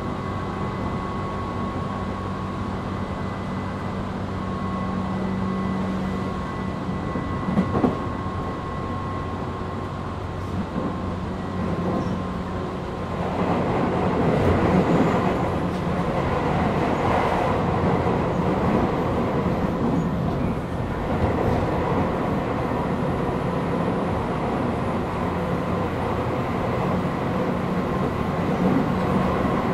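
Tobu 8000 series electric train heard from inside motor car MoHa 8270 while running: traction motor and wheel-on-rail noise over a steady hum. The noise grows louder about 13 seconds in and stays up, with a brief knock about 8 seconds in.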